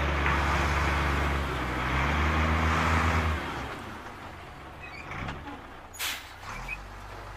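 Dump truck engine sound effect: a deep diesel rumble that changes pitch about a second and a half in and eases off about three and a half seconds in, followed by a short hiss about six seconds in.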